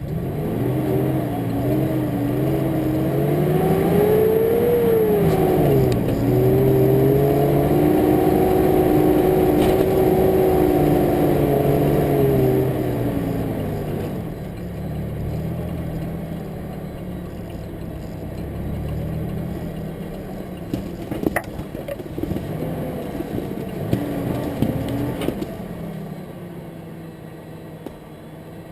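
Mitsubishi Pajero V6 engine revving off-road, its pitch rising and falling, loudest for the first dozen seconds and then easing to a lower, quieter note. A few sharp knocks come in the second half.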